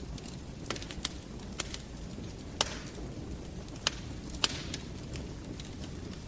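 Wood fire crackling in a fireplace: sharp, irregular pops over a low, steady rumble, the loudest pops about two and a half and four and a half seconds in.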